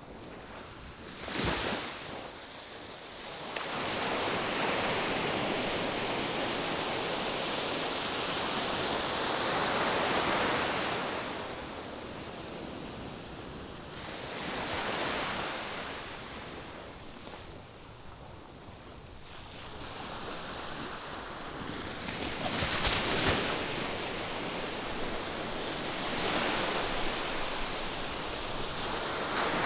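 Ocean surf: waves breaking and washing ashore in slow swells several seconds apart, with sharper crashes about a second and a half in, about three quarters of the way through, and at the end.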